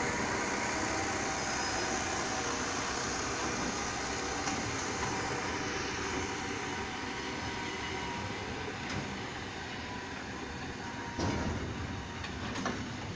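Train of ballast hopper wagons rolling past close by: a steady rumble and rattle of steel wheels on rail, easing off slightly, with a sharp knock near the end.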